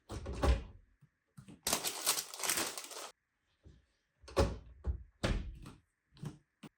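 Household objects being handled: a series of knocks and clunks, with a short noisy rustle lasting about a second and a half near the middle.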